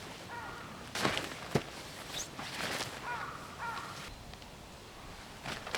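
A crow cawing, three short caws, with a couple of sharp knocks or footsteps about a second in.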